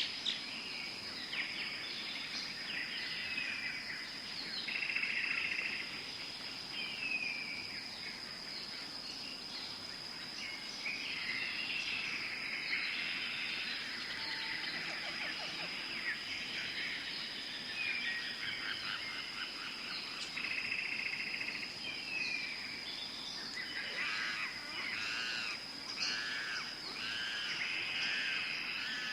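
Tropical forest ambience: many birds calling and chirping, one over another, over a steady high-pitched insect tone.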